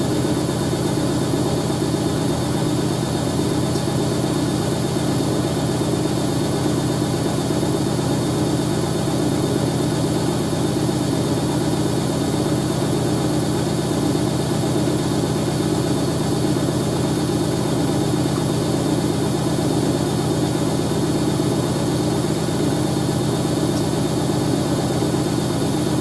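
Hoover A3060 Electronic 1100 washing machine in its final spin, running at a steady speed with a constant low hum and drone.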